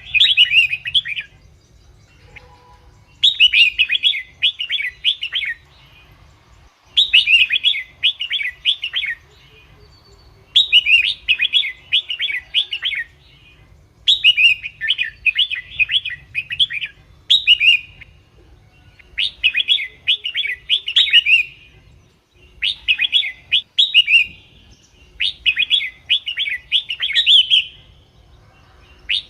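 Red-whiskered bulbul song: short phrases of quick, high notes, each lasting about two seconds, repeated every three to four seconds, about eight times.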